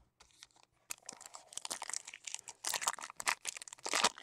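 Trading-card pack wrapper being torn open and crinkled by hand, a run of crackly rustling that starts about a second in and is loudest near the end.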